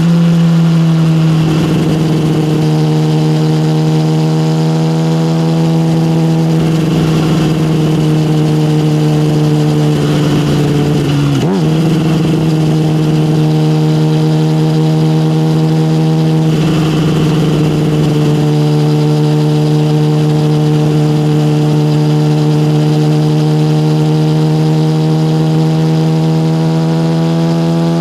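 Yamaha motorcycle with an SC Project aftermarket exhaust running at a fairly steady engine speed while being ridden. There is a brief dip and recovery in pitch about eleven and a half seconds in.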